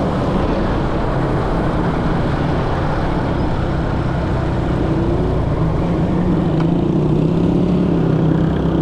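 Motorcycle engine running amid street traffic, a steady engine hum over constant road noise that rises slightly in pitch in the last few seconds.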